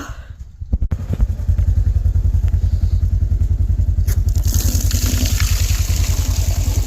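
A small vehicle engine starts about a second in and runs with a steady, rapid, even putter. A hiss joins at about four seconds in.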